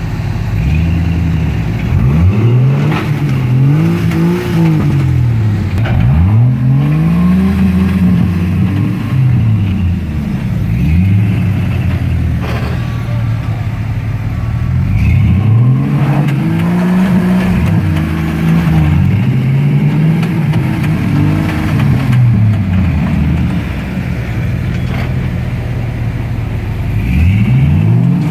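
Jeep Cherokee XJ engine revving up and down under load as it crawls over boulders. The revs rise and fall in repeated swells every two to three seconds.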